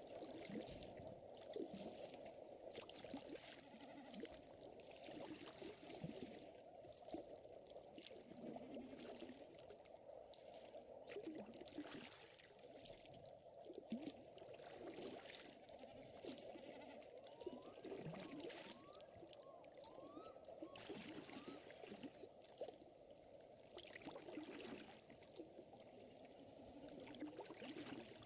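Faint lakeside ambience: a gently crackling fire with water trickling and lapping. A few short rising chirps come about two-thirds of the way through.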